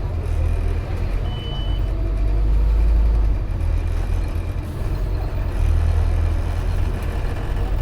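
Scania OmniCity N230UD double-decker bus's five-cylinder diesel engine running under the floor, a deep rumble heard from on board that swells and eases. A short high beep sounds once, about a second and a half in.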